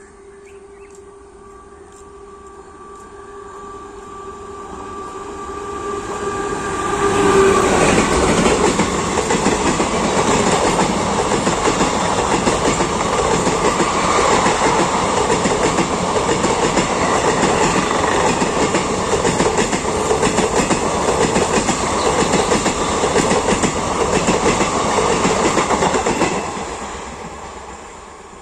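Express passenger train of ICF coaches passing at speed, its wheels clattering over the rail joints. A faint steady hum builds as it approaches, the loud pass-by starts about seven seconds in and lasts nearly twenty seconds, then falls away near the end.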